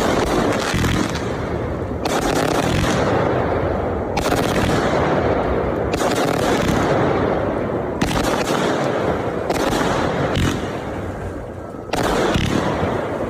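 Consumer multi-shot firework cakes firing a rapid, continuous barrage of crackling reports and booms, like a war zone. Fresh volleys break in about every two seconds. The barrage eases off briefly shortly before the end, then picks up again loudly.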